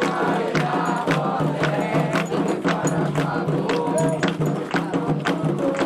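Candomblé ritual music for Ayrá: drums and sharp percussion strikes keep a fast, steady rhythm while voices sing a chant.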